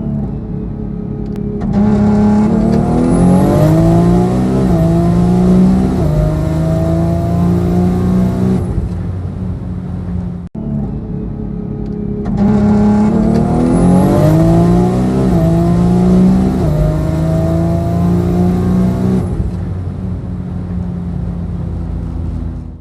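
Single-turbo BMW S58 straight-six in a heavily tuned X3M at full throttle, pitch climbing and dropping back at each of several quick upshifts. It then lets off to a lower steady drone, and after a brief cut a second full-throttle pull follows the same pattern.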